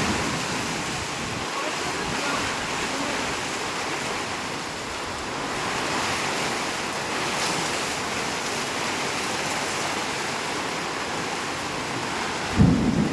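Heavy rain pouring steadily as an even hiss. Near the end a loud low rumble comes in.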